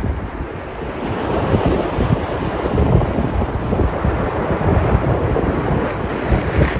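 Sea surf washing onto the shore in a steady rush of breaking waves, with wind buffeting the microphone in a low rumble. A brighter wash swells up near the end.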